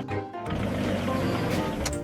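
Forklift sound effect: a steady engine hum over light background music, starting about half a second in.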